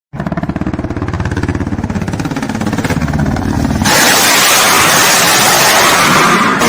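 Ka-52 attack helicopter's rotors and engines running with a fast, even pulsing beat. About four seconds in, a sudden loud, steady rushing noise takes over.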